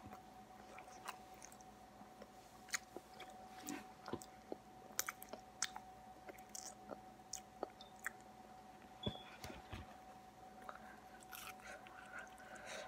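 Chewing and biting into a crispy, oven-baked burrito close to the microphone: scattered small crunches and mouth clicks, with a faint steady hum underneath.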